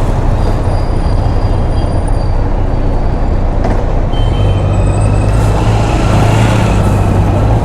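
Motorcycle engine running under steady road and wind noise, with a low hum that grows stronger about halfway through.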